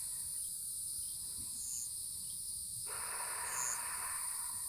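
Steady high-pitched chorus of crickets or other insects, with a short chirp repeating about every two seconds. A rush of noise starts suddenly about three seconds in and cuts off near the end.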